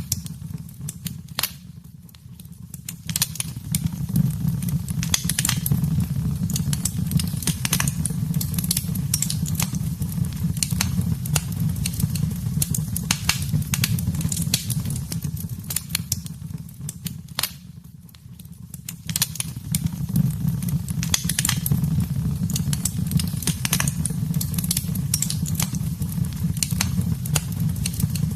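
Wood fire burning in a fireplace: a steady low rumble of the flames with frequent sharp crackles and pops. It dips quieter briefly twice, about two seconds in and again around eighteen seconds.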